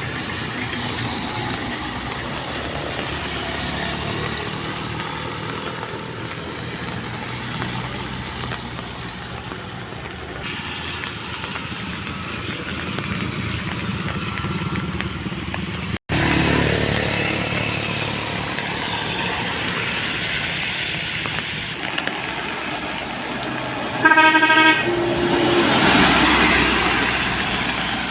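Vehicle engines running steadily, with one short horn honk near the end as the loudest sound.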